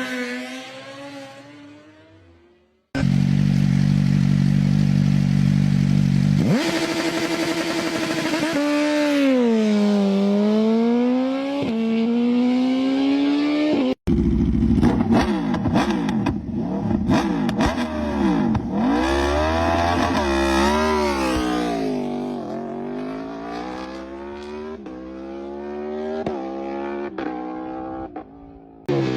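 Superbike engine at high revs, held at a steady pitch for a few seconds as launch control holds the revs, then revving down and up in repeated glides. The sound cuts off abruptly about three seconds in and again briefly near the middle, as the clips change.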